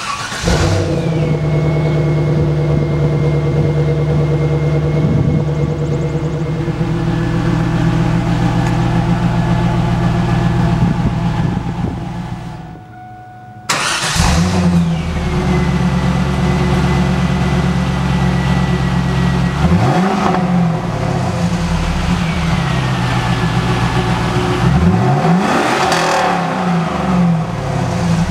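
2000 Pontiac Trans Am WS6's LS1 V8 starting up warm and settling into a steady idle at the exhaust. About halfway through the sound breaks off and the engine is heard starting again. It then idles and is revved briefly twice, the second rev bigger.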